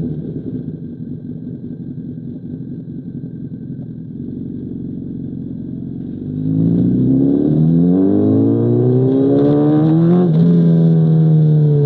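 2005 Honda CBR1000RR's inline-four engine through an SC Project CR-T exhaust. It winds down off the throttle into a rough, uneven run. About six seconds in it opens up and revs hard, rising in pitch with a quick gear change near the ten-second mark, then holds high revs and eases off at the end.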